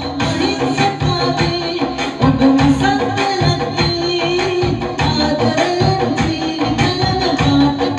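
Cover of a Sinhala song: a singing voice over a steady hand-drum beat and melodic accompaniment.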